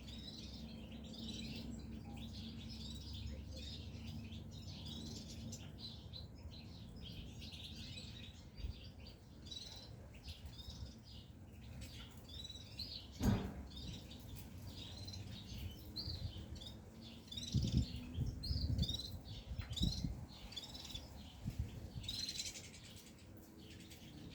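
Caged European goldfinches chirping and twittering in quick, short calls throughout. A sharp knock comes about halfway through, followed a few seconds later by several dull thumps.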